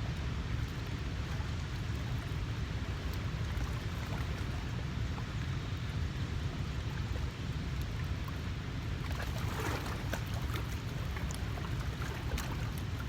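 Steady low rumble of wind on the microphone over moving water, with a brief burst of splashing and a few sharp clicks about nine to ten seconds in.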